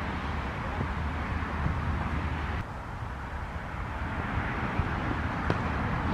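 Outdoor ambience with wind rumbling on the microphone and a steady low hum. The background drops abruptly about two and a half seconds in, and there is a single faint click near the end.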